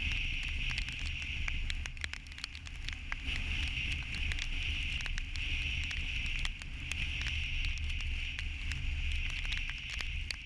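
Rain pattering irregularly on a moving vehicle, over a steady low rumble and hiss from driving.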